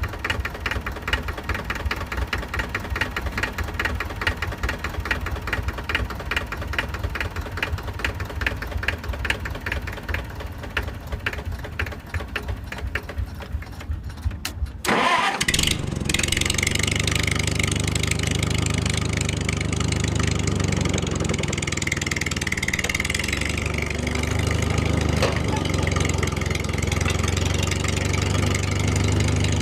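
Small engine running with a rapid, even chugging; about halfway through it breaks off briefly, then an engine runs steadily and a little louder.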